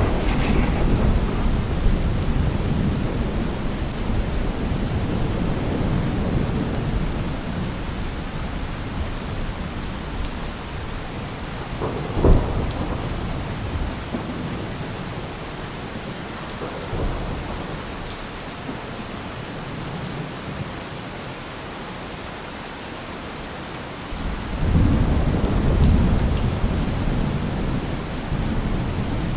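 Steady rain with thunder: a low rumble dying away over the first ten seconds, a single sharp crack about twelve seconds in, and a fresh rumble of thunder building near the end.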